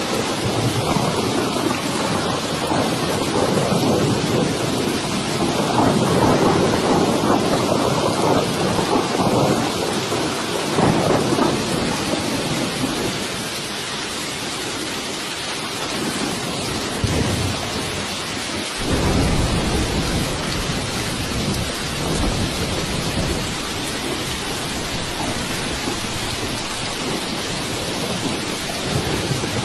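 Steady heavy rain with rolling thunder: a long rumble swells over the first ten seconds or so, and another low rumble sets in suddenly about two-thirds of the way through.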